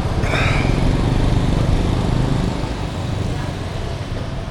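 A loud, steady low engine rumble of a passing motor vehicle, with a brief hiss about half a second in.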